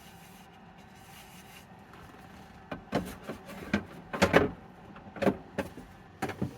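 Quiet for about two and a half seconds, then a run of irregular sharp knocks and clatters as objects are handled and set down.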